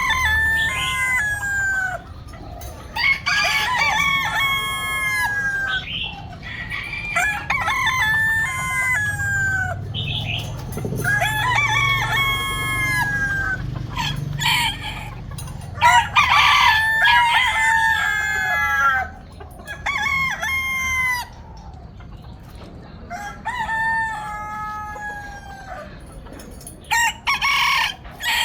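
Roosters crowing over and over, one crow after another every few seconds, some calls overlapping; the crowing thins out in the later part.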